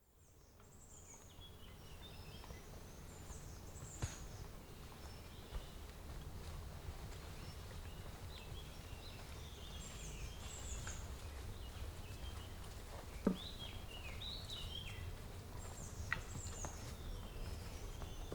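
Forest ambience: small birds chirping and calling over a steady low rumble, with a few scattered single knocks, the loudest about two-thirds of the way through.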